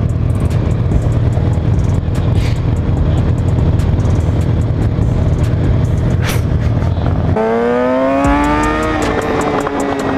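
Motorcycle riding, with a steady low rumble for most of the stretch. About seven seconds in, the engine's note comes up clearly and climbs in pitch as it accelerates. Near nine seconds it steps, like a gear change, and then runs on steadily.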